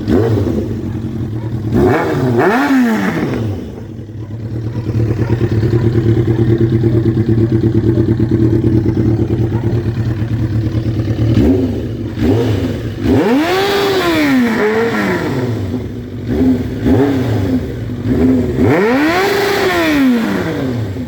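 Kawasaki ZX-7R's 750 cc inline-four engine idling and being revved by throttle blips. It runs steadily for several seconds, then gives a series of revs, with two big sweeps up and back down about halfway through and near the end.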